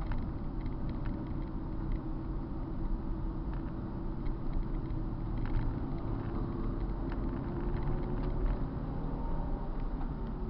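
Car engine running steadily under way, its pitch holding fairly even with slight rises and dips, over a low rumble.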